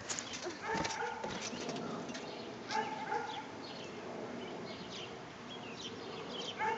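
Birds chirping outdoors: scattered short chirps, with a few brief calls a couple of seconds apart.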